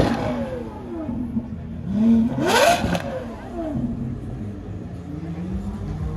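Gintani-tuned Lamborghini Aventador SVJ's V12 revving while parked. The revs fall away from a rev at the very start, then a second sharp rev rises and drops about two seconds in, and the engine settles back to a steady idle.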